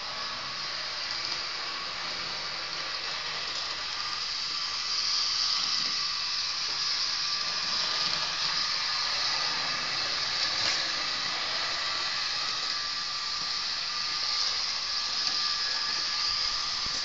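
HO scale model train running on its track loop: a steady whirring hiss from its small electric motor and wheels on the rails. It grows somewhat louder about five seconds in.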